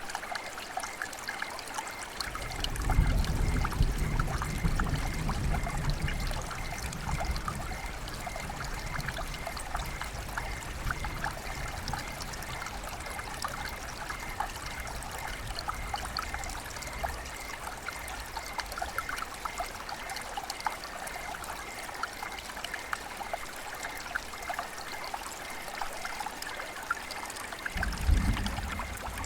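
River water flowing and trickling, a steady babble of small splashes. A low rumble swells about three seconds in, fades out by about seven seconds, and comes back near the end.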